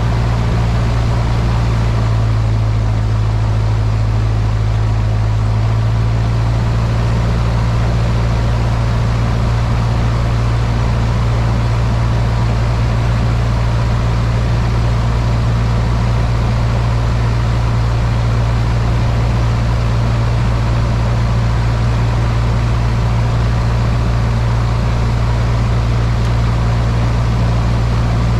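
Cessna 152's four-cylinder Lycoming piston engine and propeller heard from inside the cockpit: a loud, steady drone with a strong low hum and no change in power.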